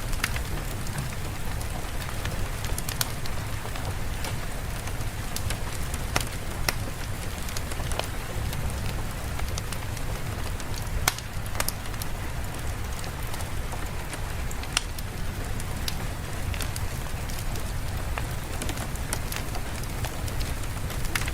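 Steady rain with a low rumble underneath, and scattered sharp crackles and pops of a fireplace.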